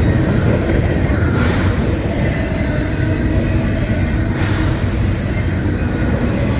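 A train rolling past at trackside, with a steady rumble and a brief rise in high-pitched rail noise about every three seconds.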